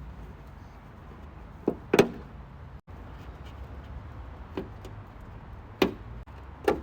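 Sound-deadening material being pulled off a Ford Transit van: about five sharp clicks and knocks of clips and panels over a steady low rumble. The loudest pair comes about two seconds in.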